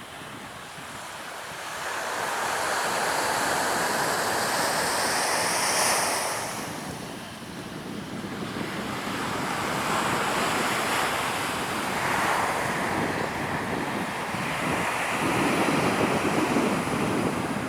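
Surf breaking and washing up the beach in repeated swells, with wind buffeting the microphone.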